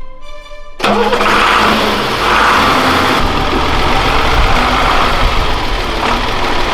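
Monster truck engine running loud and steady. It comes in abruptly about a second in and cuts off sharply near the end.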